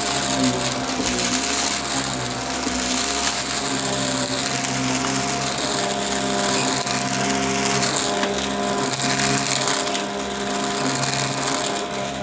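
Upright vacuum cleaner running steadily, its motor giving a steady whine over the rushing noise of the suction, picking up crunchy debris.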